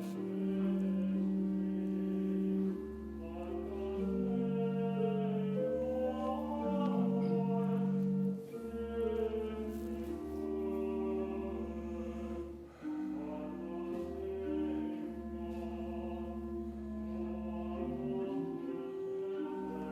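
Hymn music before Mass: sustained chords over a low held bass line that change every second or two, with voices singing along.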